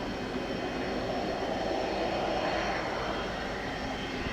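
Cessna Citation Sovereign business jet's twin turbofan engines running steadily at taxi power, a constant rush with a faint high whine.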